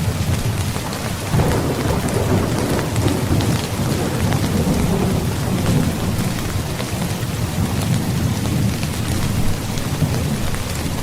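Heavy rain falling steadily, with thunder rumbling low underneath; a roll of thunder swells about a second in and rumbles on.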